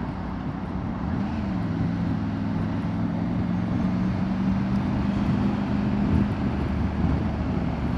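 Motorbike engine running as the bike rides along: the revs rise and dip briefly about a second in, then hold steady. Wind and road noise rush over the rider's clip-on wireless mic, which has noise cancellation switched off.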